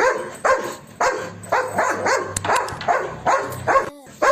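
Rapid dog barking, about two barks a second, with a brief pause near the end.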